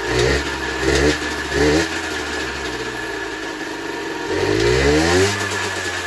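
Generic Trigger SM 50cc two-stroke engine idling, blipped three times in quick succession in the first two seconds and then revved once for about a second, each time rising and falling straight back to idle.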